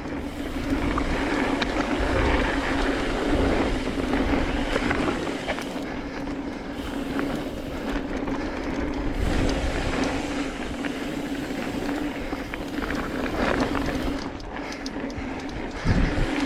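Mountain bike ridden fast down a dirt trail: tyres rolling and crunching over dirt and rock, the bike rattling, and wind rumbling on the camera microphone, over a steady drone.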